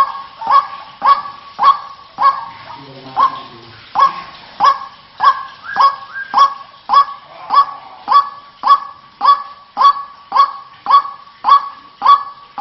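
White-breasted waterhen calling a harsh, repeated 'kwak' about twice a second in a steady monotonous series, with a brief break about two seconds in.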